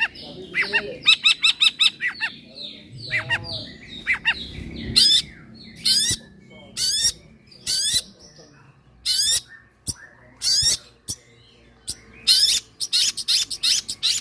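Long-tailed shrike (cendet) singing a fast, varied song of short sharp notes. About a second in there is a rapid rattling roll, and later come repeated harsh, scratchy rising calls.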